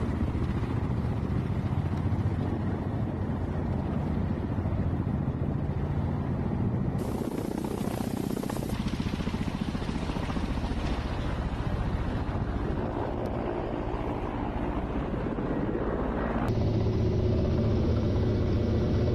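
Ka-52 attack helicopter's coaxial rotors and turboshaft engines running steadily, with a fast low beat from the blades. The sound changes abruptly about 7 seconds in and again near the end as the shot changes.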